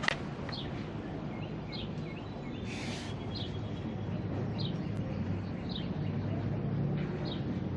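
A bird repeating a short, falling chirp about once a second, over a steady low hum. A brief hiss about three seconds in.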